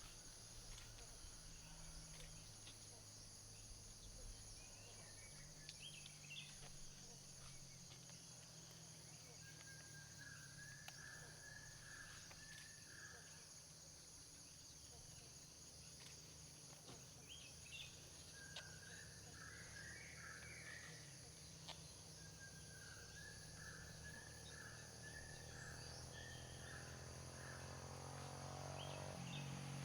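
Faint forest ambience: insects trilling steadily at a high pitch, and a bird calling three runs of quick repeated notes. Near the end a vehicle approaches.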